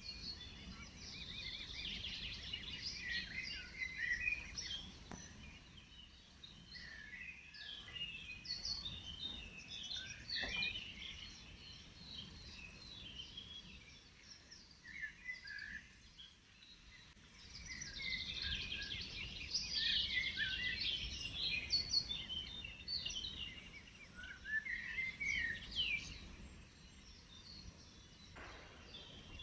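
Several songbirds singing at once: many overlapping chirps and trills, busier near the start and again past the middle, with a quieter spell in between, over a faint low background noise.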